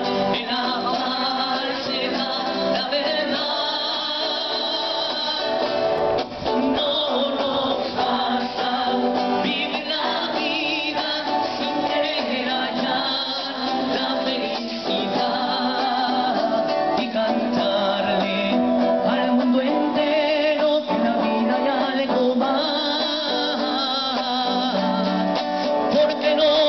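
Men and women singing a song together with guitar accompaniment.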